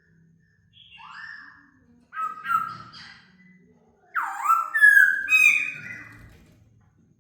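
Laughingthrush singing: a short call about a second in, then two bursts of loud whistled phrases with sliding notes, the loudest beginning about four seconds in.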